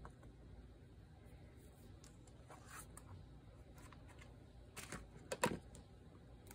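Faint handling of paper and craft supplies on a table: quiet rustling with a few short scrapes and clicks, the loudest about five seconds in.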